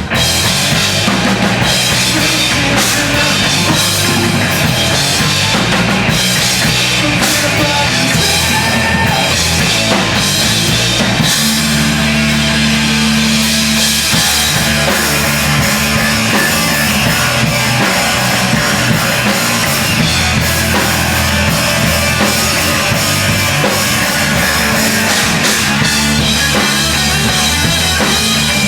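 Live post-hardcore/screamo band playing loudly: crashing drum kit, distorted guitars and bass in a dense, continuous wall of sound.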